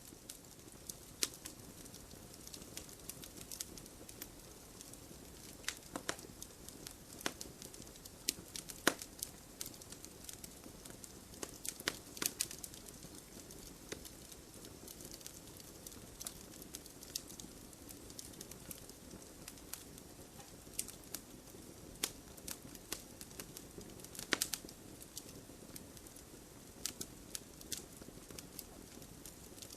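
Open wood fire crackling: irregular sharp pops and snaps, a few louder than the rest, over a steady low rush of burning.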